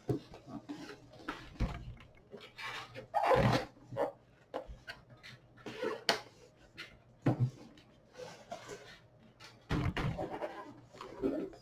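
Cardboard box and packaging being handled and opened: irregular knocks, scrapes and rustles.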